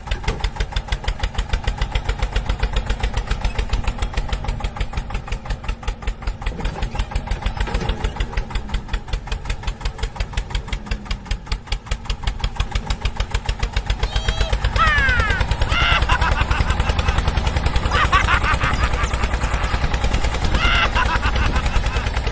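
Small tractor engine chugging steadily in rapid even beats, getting louder about two-thirds of the way through. Several short high-pitched cries come over it near the end.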